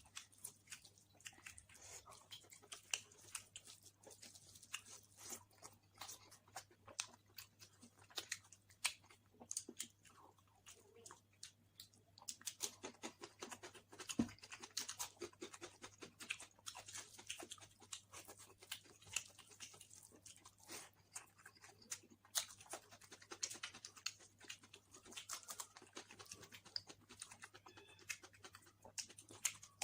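A person chewing a mouthful of basmati pulao and mutton curry: many small, irregular wet clicks and smacks of the mouth.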